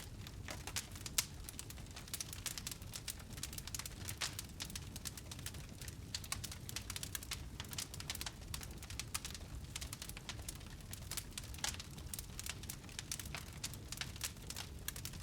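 Wood fire burning in a fireplace, crackling: a dense, irregular run of small sharp pops and snaps over a steady low rumble.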